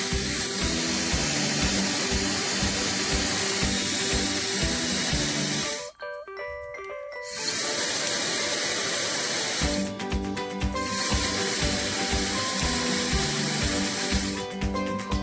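llano LL-PC001 hair dryer blowing air with a steady rush over background music. The airflow cuts out about six seconds in and again around ten seconds in, coming back each time, and stops near the end.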